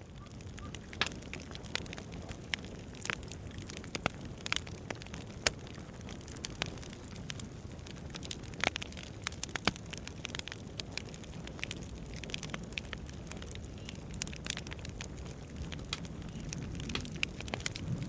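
Campfire crackling, with irregular sharp pops over a steady low rumble and a few louder snaps.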